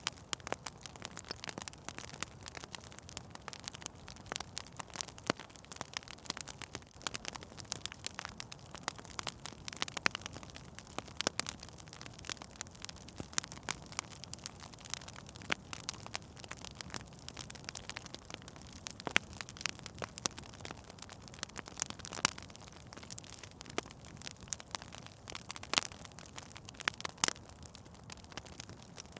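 Wood fire in a fireplace crackling, with sharp irregular pops and snaps over a low steady hiss.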